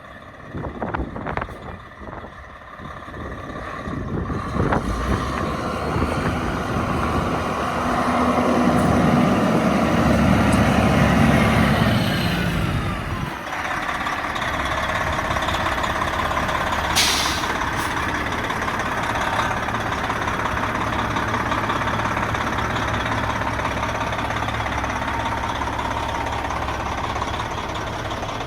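1995 White GMC WB semi truck's diesel engine running: a few clicks, then the engine builds up and runs louder for several seconds. It drops back abruptly about halfway and then idles steadily. A brief sharp hiss of air sounds a few seconds after the drop.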